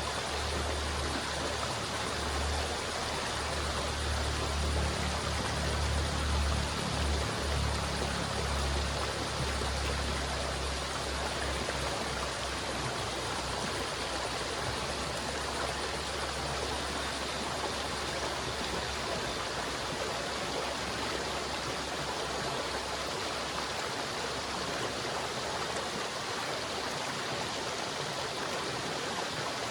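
River water flowing with a steady rushing sound, with a deep low rumble underneath that is strongest in the first third and then fades.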